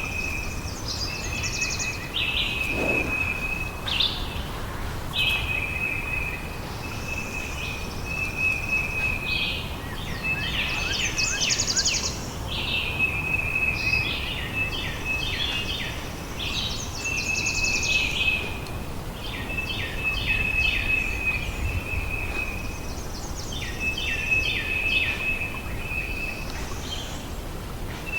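A bird singing the same phrase over and over, about every three to four seconds: a held high whistle, then a quick run of short notes.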